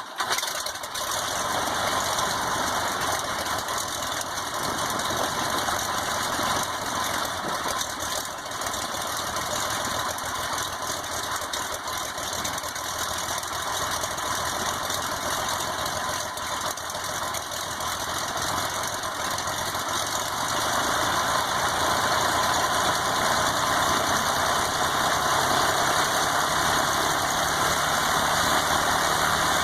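Continental GO-300 geared flat-six aircraft engine and its propeller catching right at the start and then running steadily. It grows slightly louder about two-thirds of the way through.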